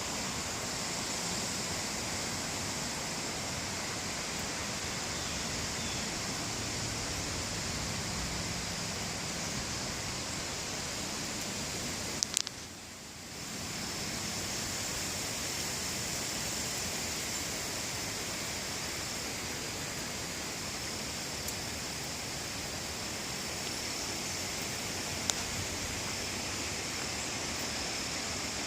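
Strong wind blowing, a steady rushing noise, with a couple of sharp clicks and a brief drop in the noise about twelve seconds in.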